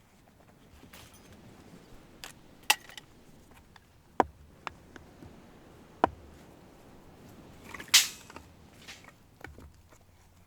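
Several sharp, irregular knocks and clacks of hard objects, with a louder, longer clatter about eight seconds in.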